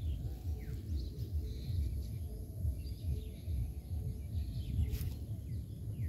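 Faint birds chirping over a loud, uneven low rumble on the microphone, with a single sharp click about five seconds in.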